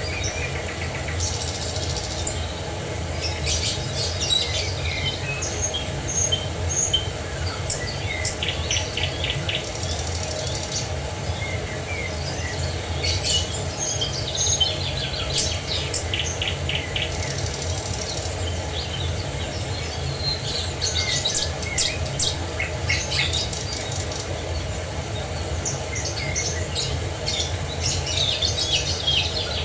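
Several songbirds chirping and trilling, short calls and rapid trills overlapping throughout, over a steady low rumble.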